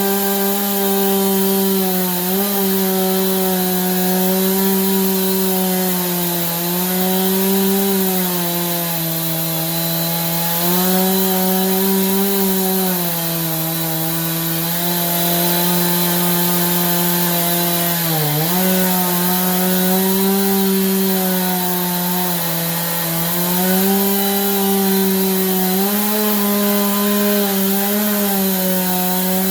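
Stihl two-stroke chainsaw running at high revs under load, ripping a wet pine log lengthwise in an Alaskan chainsaw mill. The engine note rises and sags as the load on the chain changes, with one brief sharp dip about 18 seconds in.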